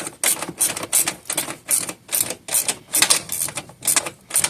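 Ratchet wrench clicking in quick, uneven back-and-forth strokes, a few a second, as bolts on a generator frame are tightened.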